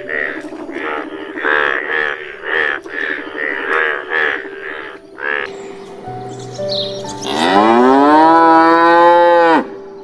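A chorus of Indian bullfrogs croaking in quick, repeated calls for about five seconds. After a short pause a cow gives one long moo, rising in pitch and then held for about two seconds before it breaks off abruptly.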